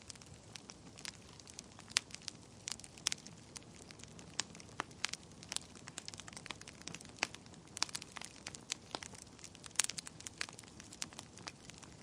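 Wood fire burning in a fireplace, crackling with irregular sharp pops and snaps, several a second and of varying strength, over a soft steady hiss of the flames.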